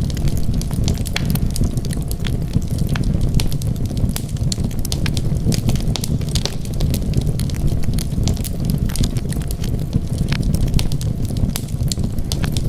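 Wood fire burning in a fireplace: frequent sharp pops and snaps of crackling wood over a steady low rumble of the flames.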